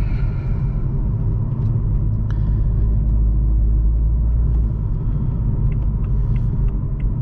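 Deep, steady exhaust drone heard inside the cabin of a 2021 Toyota Supra with a muffler delete and downpipe, cruising below about 2,000 RPM. The drone is loud.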